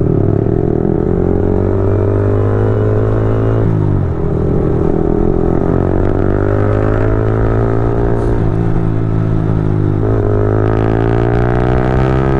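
Motorcycle engine under way, pulling steadily with its pitch slowly climbing, then dropping sharply at gear upshifts about 4 seconds and 10 seconds in before climbing again.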